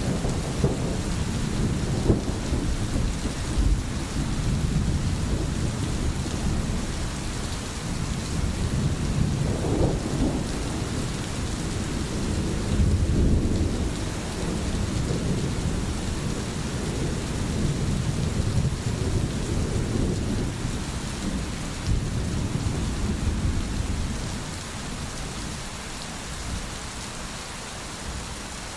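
Steady rain falling, with low rolling rumbles of thunder underneath that ease off near the end.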